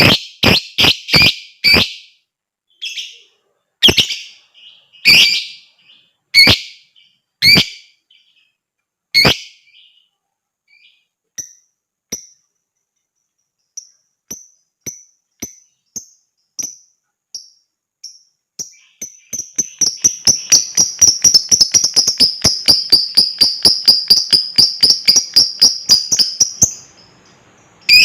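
Lovebird calling: a string of loud, sharp shrieking chirps about a second apart, then softer short chirps, then a fast chattering trill of about eight seconds, the long 'ngekek' song that lovebird keepers prize.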